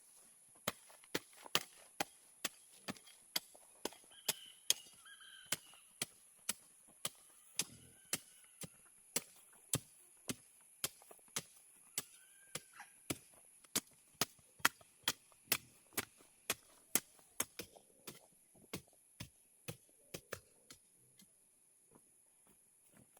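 Sugarcane being chopped with a blade: a steady run of sharp strikes, about two a second, getting weaker near the end. A few faint bird chirps are heard between the strikes.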